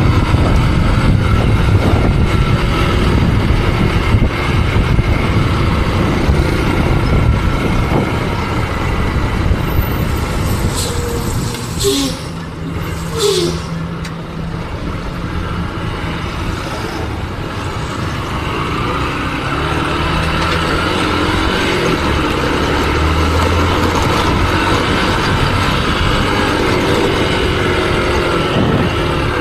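Motorcycle running on the road with wind rushing over the microphone. The sound eases off about twelve seconds in, then gradually builds again as the bike picks up speed.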